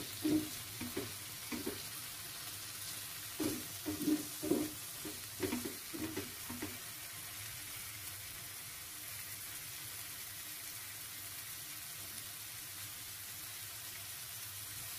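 Pineapple chunks and chilli spice paste sizzling in oil in a nonstick frying pan as they are sautéed until the pineapple softens. A slotted spatula stirs and scrapes in short strokes for the first seven seconds or so, then only the steady sizzle remains.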